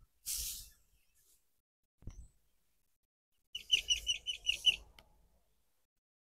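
A small bird chirping, a quick run of about seven high, clear notes a little past halfway. Just before that, a brief soft rustle of fingers rubbing through hair during the head massage.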